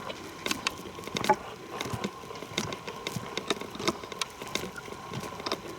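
Footsteps on a forest trail: irregular crunching steps, a few each second.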